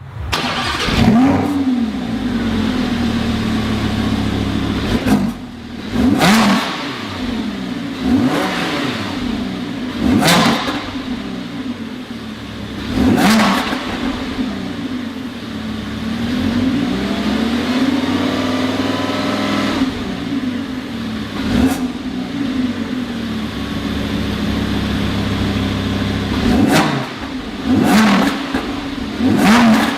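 High-performance engine running loud through its exhaust at a steady idle, revved in repeated sharp throttle blips that climb and drop quickly, with one slower rise and fall of revs in the middle.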